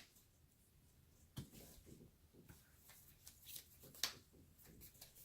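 Faint, scattered taps and clicks of trading cards being drawn, turned and set down on a table. The clearest taps come about a second and a half in and again about four seconds in.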